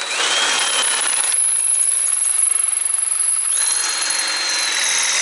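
A handheld power tool runs continuously while working on an exhaust bolt. Its motor whine rises as it spins up near the start and again a little past halfway.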